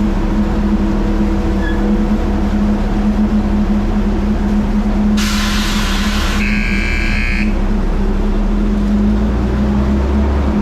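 Dump truck's engine running with a steady drone. About halfway there is a burst of hiss, followed by a brief higher tone lasting about a second.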